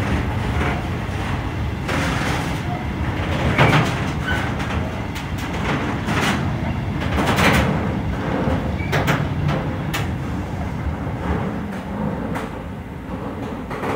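A train running past close by: a steady rumble with irregular metallic clanks and a few brief squeaks.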